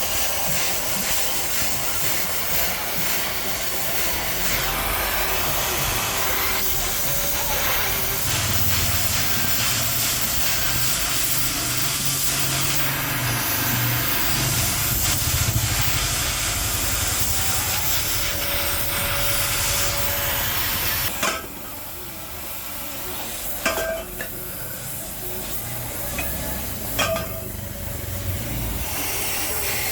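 Steady hissing workshop machine noise with a low hum underneath. It drops sharply about two-thirds of the way through, and a few sharp metal knocks follow.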